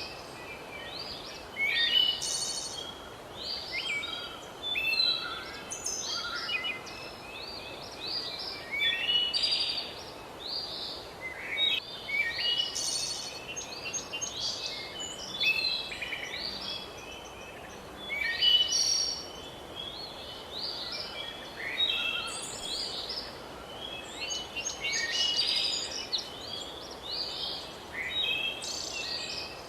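A chorus of forest songbirds: many short, overlapping chirps and whistles from several birds, over a steady faint background hiss.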